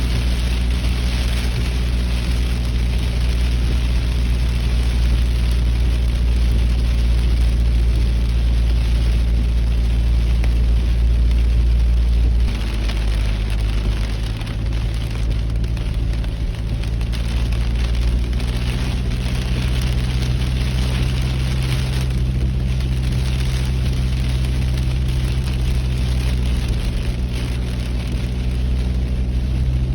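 A car driving in heavy rain: a steady low engine and road drone with a hiss of rain and wet tyres. The drone changes pitch about twelve seconds in.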